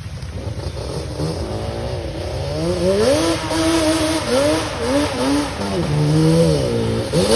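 Off-road vehicle engine revving up and down, its pitch rising, holding and dropping again and again over a low rumble, getting louder from about a second in.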